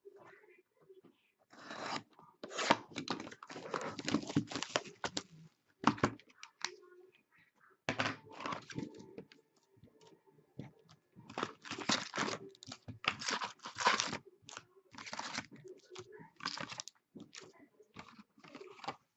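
Hockey card packaging being torn open by hand: the wrapper and packs rip and crinkle in repeated rasping stretches, some short and some a second or more long, with brief pauses between them.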